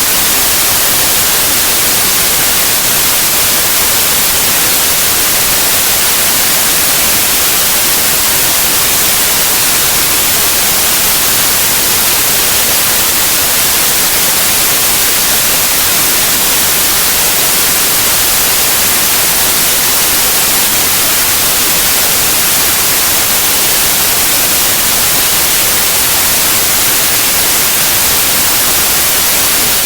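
Steady white noise: an even, unbroken hiss, brightest in the high frequencies, with no change.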